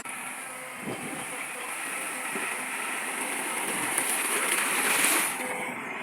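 Heavy earthmoving machinery running: a steady, noisy mechanical sound that swells about five seconds in.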